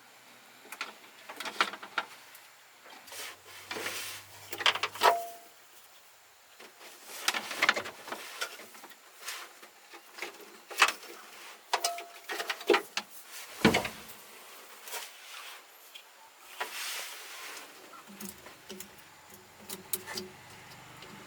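Irregular clicks, knocks and short scrapes of hand tools and metal parts being handled during mechanical repair work, with a couple of brief metallic rings.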